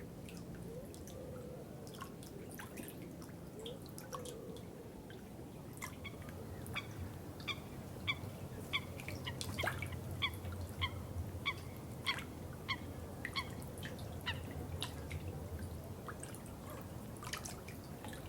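Water trickling and dripping: a steady low flow with scattered sharp drips. From about a third of the way in until near the end there is a regular run of short pitched plinks, about one and a half a second.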